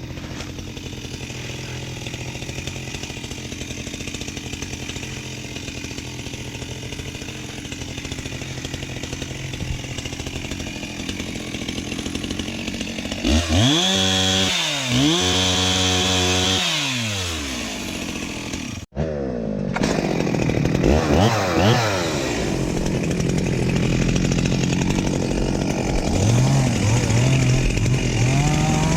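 Two-stroke chainsaw running, first at a steady low speed and then revved up and down repeatedly, its pitch rising and falling over the second half.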